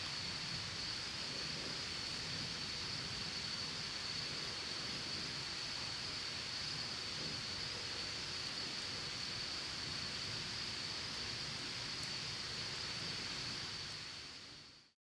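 Steady rushing of a mountain stream, with a constant high-pitched drone over it, fading out about a second before the end.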